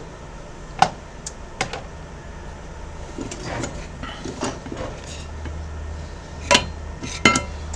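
Light clicks and knocks of small parts and tools being handled on a workbench: four sharp clicks with softer rustling between them. A low steady hum comes in about five seconds in.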